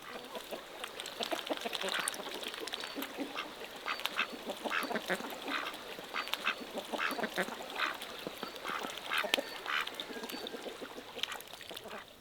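Birds calling in a fast, irregular run of short, harsh calls, many overlapping, starting abruptly and thinning out near the end.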